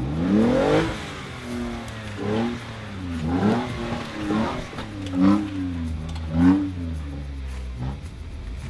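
Off-road vehicle's engine revving hard, its pitch climbing through the first second, then blipped up and down in a series of short rev bursts as it works over the trail; the loudest bursts come at the start and a little after five and six seconds in.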